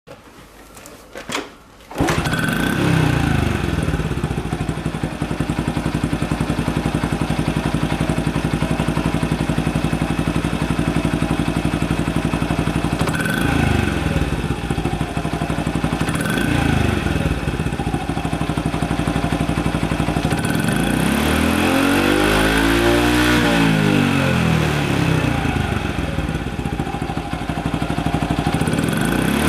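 Exhaust of a 2005 Honda Super Cub 50's 49 cc four-stroke single-cylinder engine through a Kitaco Mini Capton aftermarket muffler: the engine starts about two seconds in and idles, with two short throttle blips and then one longer rev that rises and falls about two-thirds of the way through.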